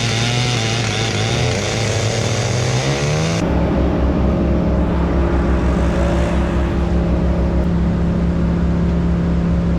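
Stihl MS881 two-stroke chainsaw running hard. Its engine pitch wavers and climbs over the first three seconds, then holds steady at high revs after an abrupt change.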